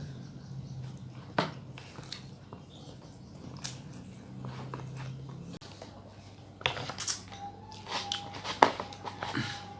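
Close-miked eating: bites and chewing, with sharp crisp clicks that come scattered at first and then thicker in the last few seconds, the loudest about eight and a half seconds in.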